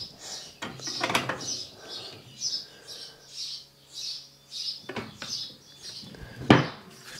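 A small bird chirping over and over, high and short, about two chirps a second. Two sharp knocks come through it, about a second in and, louder, near the end.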